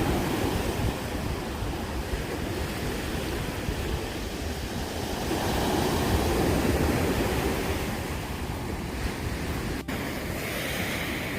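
Sea waves breaking and washing up a beach, the surf swelling louder and easing off in turn, with wind rumbling on the microphone.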